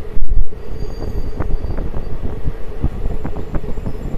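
Passenger train running, heard from aboard: a steady rumble with irregular clicks and knocks from the wheels over rail joints. There is a loud thump about a quarter second in.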